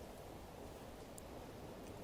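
Faint nature ambience: a soft, steady outdoor background hiss, with a brief faint high tick about a second in.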